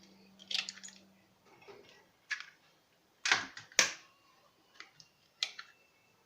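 Eggs being tapped and cracked open: a few sharp knocks, the two loudest about half a second apart just past the middle, among lighter handling clicks.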